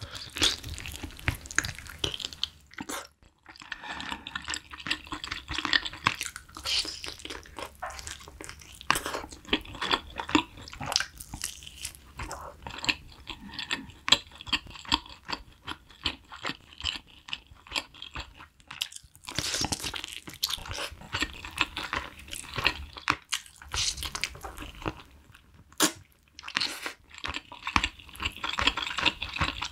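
Close-miked eating of spicy braised chicken: biting into a drumstick and chewing the meat, a dense run of small mouth clicks and smacks. There are short pauses about three seconds in and again just before twenty seconds.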